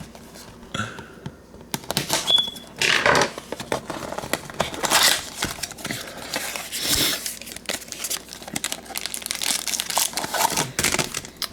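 Trading card pack wrappers and packaging being torn open and crinkled by hand, an irregular crackling that goes on throughout, with a brief high squeak a little over two seconds in.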